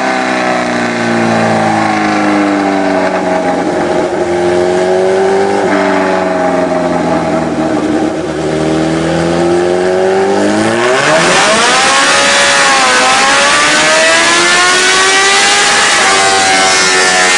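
Suzuki GSX-R1000 K3 inline-four engine with a slash-cut exhaust revving on a dyno. The pitch wanders up and down at lower revs, then rises sharply about ten seconds in, dips briefly and climbs again, louder and harsher at high revs.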